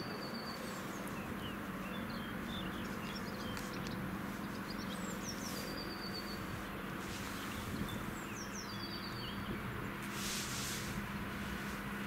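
A songbird singing a short phrase of quick falling notes that ends in an even trill, repeated about every four seconds, with a few other chirps between. Under it are a steady low hum and a rushing background noise, with a brief hiss about ten seconds in.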